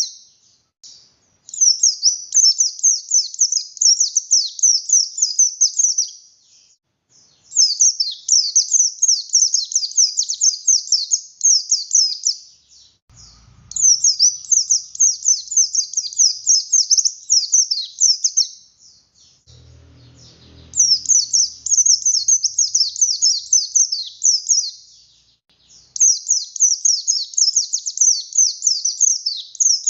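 Pleci buxtoni white-eye singing full song in bursts of rapid, high twittering chirps. There are five phrases of about four to five seconds each, split by short pauses.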